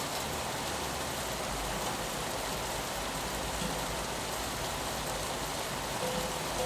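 Steady rain on a window pane, an even, unbroken hiss with a low rumble underneath.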